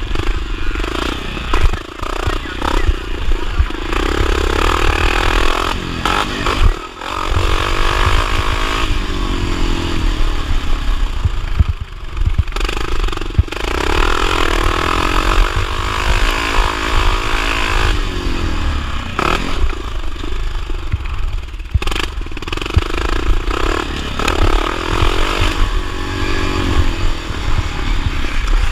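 1979 Honda XR500's single-cylinder four-stroke engine revving up and down again and again under racing throttle, over a heavy low rumble with some clattering.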